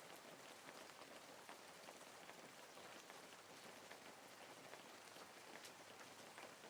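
Soft, steady rain falling: an even hiss dotted with a dense patter of individual drops.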